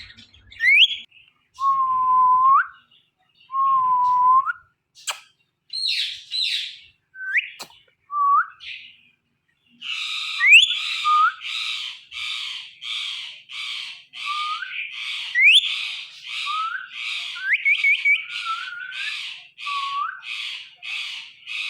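Indian ringneck parakeets whistling and calling: a few separate whistles and short rising calls, then from about ten seconds in a steady run of harsh calls, about two a second, with rising whistles over them.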